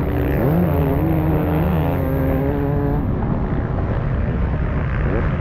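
Beta 300 RR two-stroke enduro motorcycle engine running hard on a sand straight. Its pitch climbs about half a second in, holds, and drops around three seconds in, over a steady low rumble.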